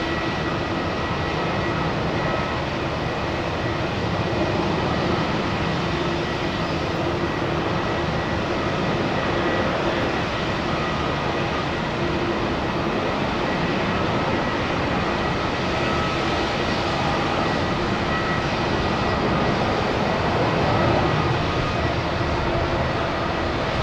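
Airbus A350-900 airliner's Rolls-Royce Trent XWB jet engines heard on a landing, a steady rushing roar with a thin steady whine running through it.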